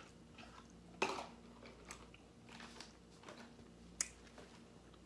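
Faint mouth sounds of a person chewing close to the microphone, with a few sharp lip smacks or tongue clicks, the clearest about a second in and again about four seconds in.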